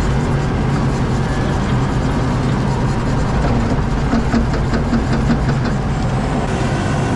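ASV RT-40 compact track loader's diesel engine running steadily while grading asphalt millings.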